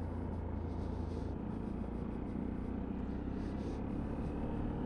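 Sinnis Terrain 125cc motorcycle running steadily on the move, a low even hum of engine and road noise.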